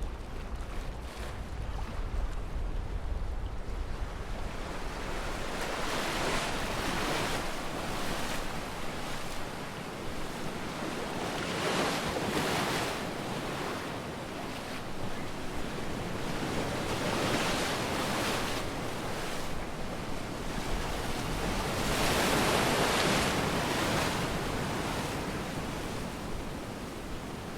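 Sea waves breaking on a sandy beach, a swell of surf every five or six seconds over a steady wash, with some wind rumble on the microphone near the start.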